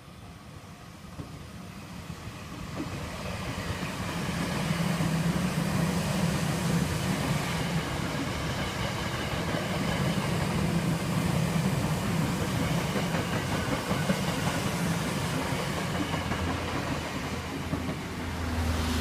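Tokyo Metro 8000 series electric train passing, its wheels running on the rails with a steady low hum. It grows louder over the first few seconds, stays loud for about ten seconds as the cars go by, and eases off near the end.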